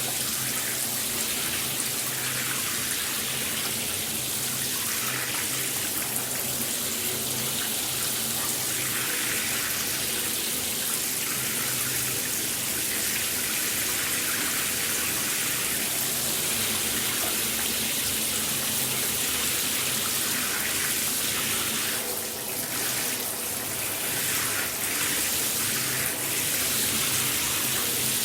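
Shower water spraying steadily, an even hiss of falling water, with a slight dip in level about three quarters of the way through.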